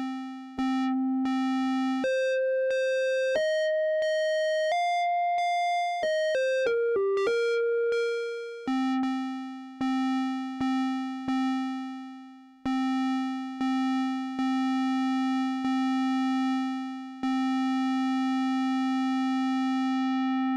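Analog synthesizer: the Little Monster VCO through the SOB filter, its cutoff driven by the Anvilope's inverted envelope, played as a run of held notes. A low note is struck several times, then a quick run of higher notes rises and falls about halfway through, and it ends on long repeated low notes.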